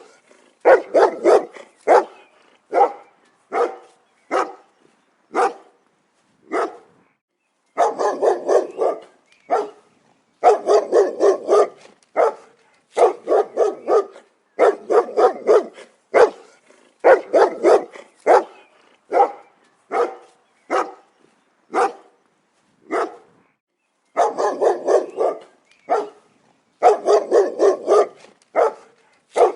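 A dog barking repeatedly in quick runs of several short barks, with brief pauses between the runs.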